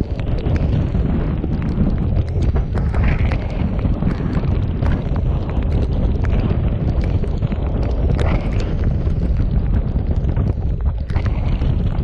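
Strong storm wind buffeting the microphone as a loud, steady low rumble, with many scattered sharp ticks mixed in.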